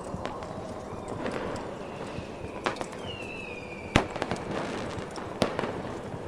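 Fireworks going off: several sharp bangs with crackle after them, the loudest about four seconds in. A falling whistle sounds just before it, all over a steady rushing background.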